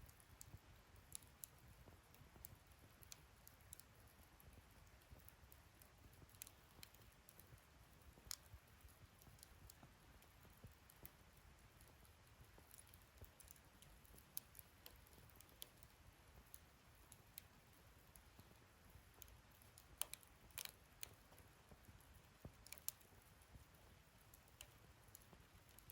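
Wood fire in a fire-pit stand crackling faintly: scattered small snaps and pops over a low rumble, with a cluster of sharper pops about twenty seconds in.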